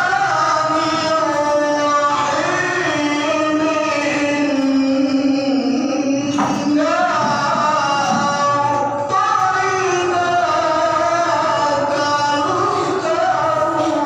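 A qari's male voice reciting the Quran in melodic tilawah style, with long ornamented phrases and a short break for breath about six and a half seconds in, amplified through a simple TOA public-address loudspeaker.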